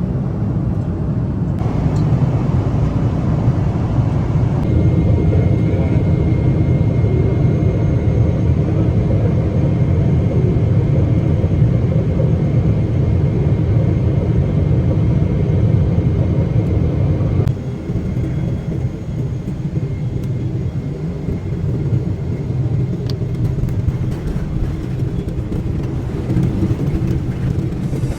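Steady low rumble of a vehicle in motion, changing abruptly a few times.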